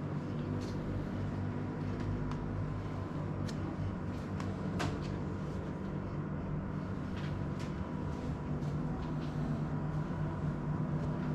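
A steady low hum with a few faint steady tones, and scattered light clicks and knocks now and then.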